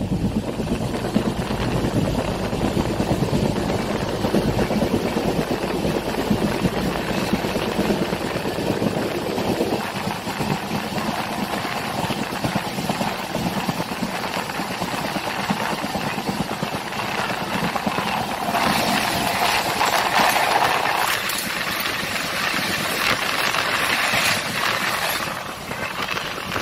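Steady rumble and rattle of a passenger train coach heard from on board, with a louder, hissier stretch about two-thirds of the way in.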